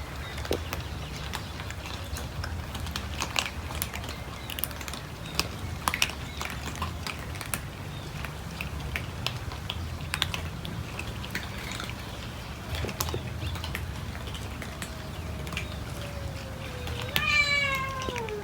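Cats eating, with scattered small clicks of chewing over a steady low hum. Near the end a cat gives a long meow that falls in pitch.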